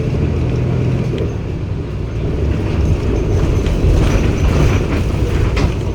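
Cummins ISB six-cylinder diesel engine of a Daewoo BS090 city bus running steadily, with a few short knocks and rattles over it.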